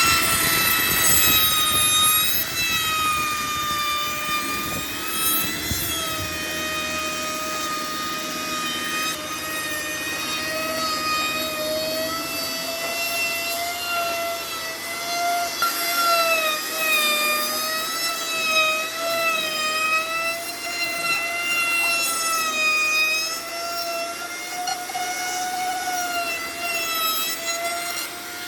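High-speed electric power tool running steadily with a high whine whose pitch dips and recovers slightly as it is worked against the wood.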